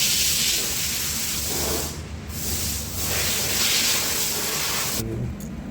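Hissing jet of pressurised air or aerosol spray aimed at the scooter's starter-motor parts, in three bursts with short breaks about two and three seconds in, cutting off about five seconds in.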